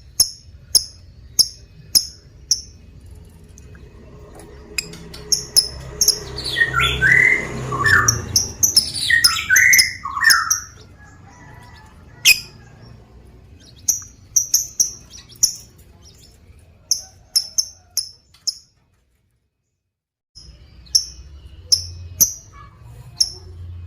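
Lovebirds calling: runs of short, sharp, very high chirps, three to five in quick succession, repeated over and over. For a few seconds in the middle, lower calls that fall in pitch sound over them, and the sound drops out entirely for about a second and a half near the end.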